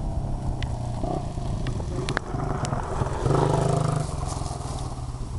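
Small Honda dirt bike engine running, with a steady low hum that grows louder for about a second near the middle.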